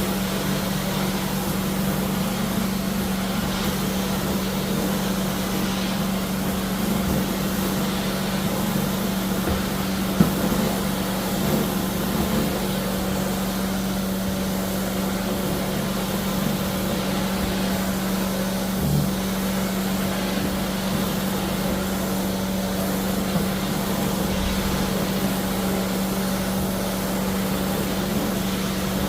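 Floor-cleaning equipment running with a steady drone and a constant low hum, as tile and grout are being cleaned. A single sharp knock about ten seconds in.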